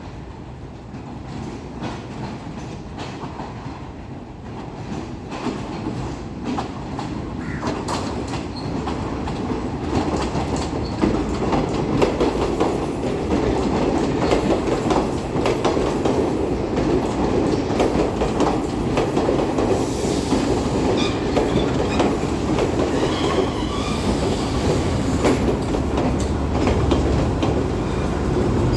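Train rolling on the rails, its wheels clacking over rail joints. It grows louder over roughly the first twelve seconds, then holds steady, with faint wheel squeal in the second half.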